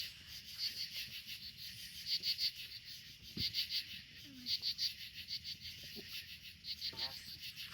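Crickets chirping: short, rapid, high-pitched pulse trains repeating about once a second. A single low knock sounds about three and a half seconds in.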